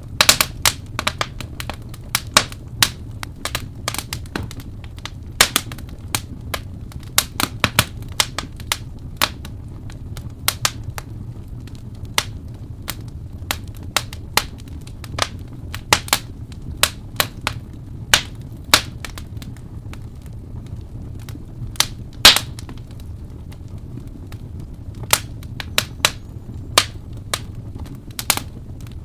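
Wood fire crackling, with many irregular sharp pops and snaps over a steady low rumble of the flames; one pop about 22 seconds in is the loudest.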